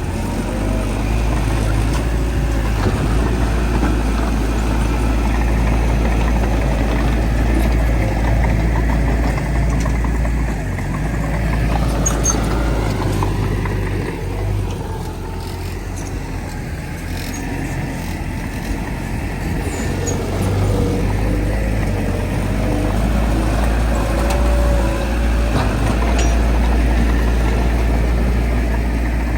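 Heavy diesel engines of earthmoving machinery running steadily with a deep rumble, easing off for several seconds about halfway through before working again.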